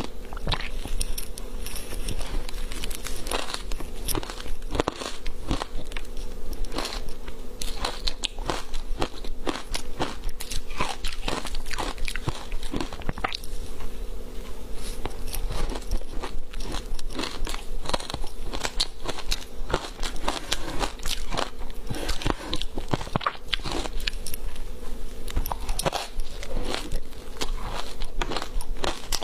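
Close-up biting and chewing of frozen matcha green tea powder ice: a continuous stream of sharp crunches and crackles. A faint steady hum runs underneath.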